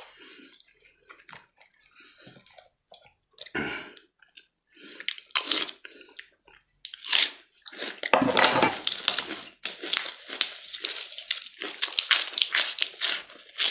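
Close-miked chewing and mouth noises from a person eating, quiet and sparse at first, then loud, dense crisp crunching from about seven seconds in as he bites and chews raw green vegetable leaves.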